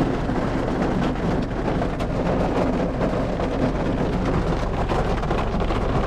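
Steady rain falling, with a dense run of close drop hits.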